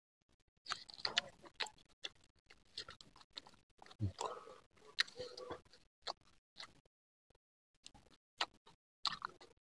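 Faint, sporadic mouth sounds of chewy beef-skin satay being bitten off skewers and chewed, with scattered small clicks and ticks.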